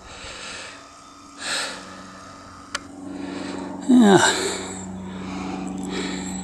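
A man breathing hard, out of breath from cycling a soft trail, with one heavy breath about a second and a half in. A single sharp click comes near three seconds.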